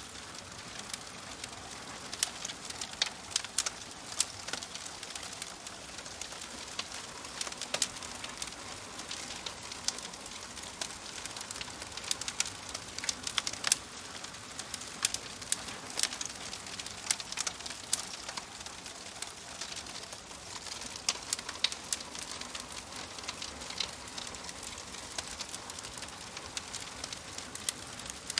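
Wood fire crackling steadily: a soft hiss with frequent sharp, irregular pops and snaps.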